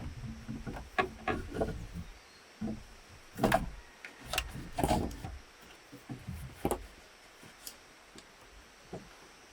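Irregular knocks and clunks of bamboo poles being handled and struck, a dozen or so, thinning out near the end.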